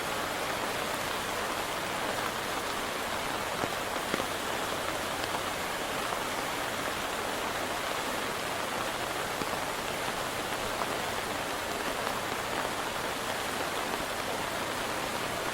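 A steady, even hiss of water with no break.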